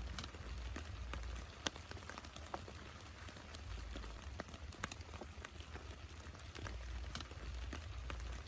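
Rain falling, with individual drops tapping irregularly on a surface and a few louder drips, over a low rumble that swells and fades.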